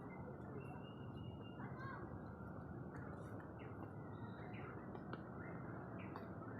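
A few short, high bird chirps over a faint, steady background murmur.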